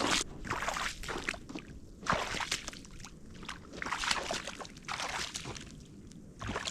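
Boots wading through shallow meltwater and wet snow, each step sloshing and splashing, about once a second.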